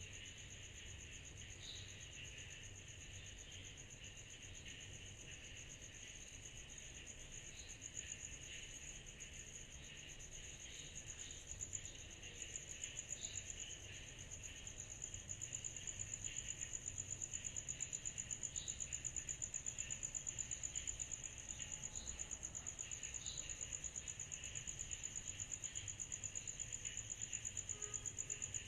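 Summer-night insect chorus, sold as cicadas: a steady, rapidly pulsing high trill over a lower, rougher buzzing band with scattered short chirps. The trill grows louder about halfway through and then holds steady.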